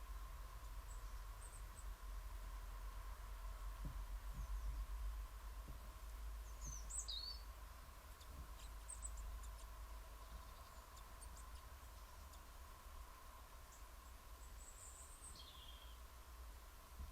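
Faint, short high-pitched calls of small garden birds, a few scattered chirps with the clearest about seven seconds in and another falling call near the end, over a steady hiss and a faint constant whine.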